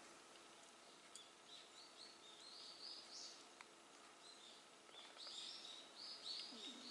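Near silence: a bird chirps faintly in the background in short runs of quick rising notes, with a couple of soft clicks of hands working on the RC car's engine.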